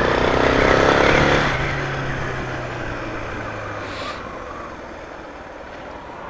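Suzuki DR650's single-cylinder four-stroke engine accelerating under load for about a second and a half, then easing off, its note dropping and fading to a low hum as the bike rolls on.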